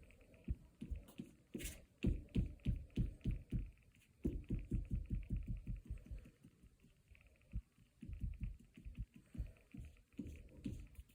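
Soft, low thumps in quick runs of about five a second, with short pauses between the runs, typical of tapping or pressing on a work surface.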